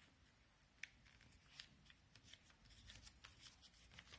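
Faint rustling and small crackles of a square of paper being folded and creased by hand.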